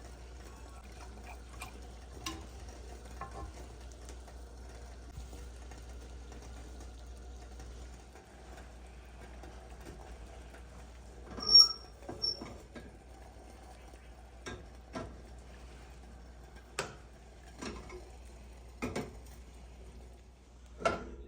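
Kitchen utensils and dishes being handled: scattered light knocks and clicks, with one sharp ringing clink, like metal or glass struck, about halfway through, followed by several more knocks.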